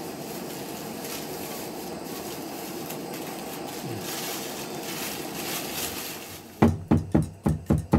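A steady rushing noise, then near the end a Chinese cleaver chopping on a cutting board in quick, even strokes, about four or five a second.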